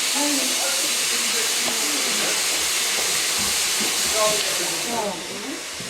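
Steam locomotive letting off steam: a steady, loud hiss that fades about five seconds in, with faint voices of people around it.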